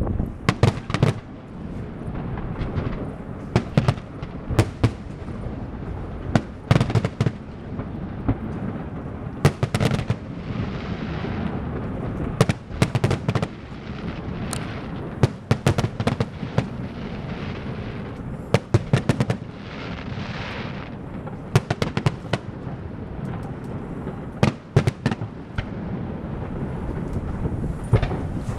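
Fireworks going off: irregular sharp bangs, often several in quick succession, with stretches of crackling in between.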